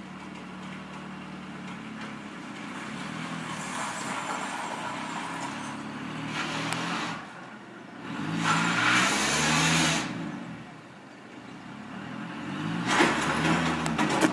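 Car engine and road noise, rising and falling in pitch as the vehicle speeds up and slows, with louder swells about eight seconds in and again near the end.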